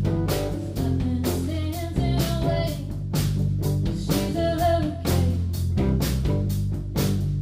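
Live rock band playing a blues-rock instrumental passage: drum kit keeping a steady beat about twice a second under bass and electric guitar, with a wavering melodic lead line on top.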